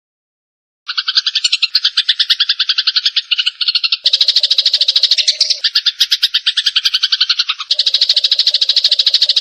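Eurasian tree sparrows chattering in a fight call: a fast run of harsh chirps, about ten a second. It starts after a second of silence and changes abruptly a few times where recordings are spliced together.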